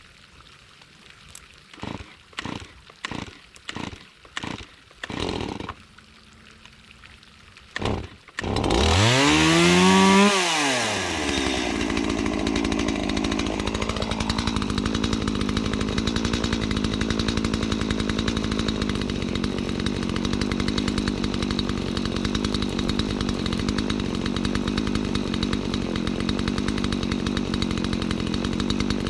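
Stihl two-stroke chainsaw being pull-started: about seven short pulls on the starter cord, then the engine catches about eight seconds in, rises in pitch and falls back, and settles into a steady idle.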